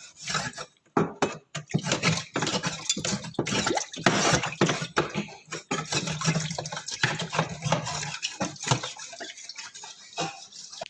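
A flat metal spatula scraping hard-water scale off the bottom of a plastic air-cooler water tank, with water sloshing. The strokes come as a quick, irregular run of scrapes and knocks that thin out near the end.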